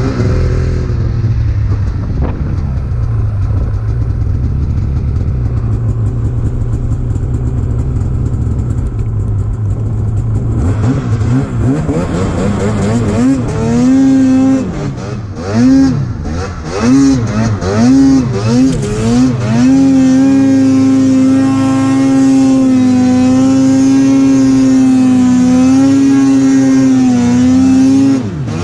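Arctic Cat Alpha One snowmobile's two-stroke engine, fitted with an aftermarket exhaust and clutch, idling steadily, then blipped about seven times in quick succession, then held at high revs for about eight seconds before dropping off near the end.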